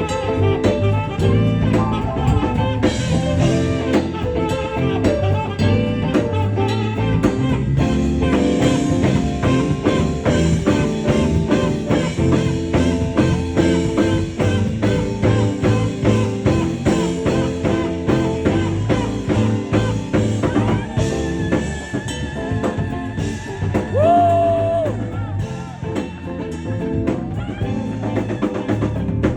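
Live jazz band music: drum kit and guitar playing a steady groove with saxophone, and a long held note with vibrato about two-thirds of the way in.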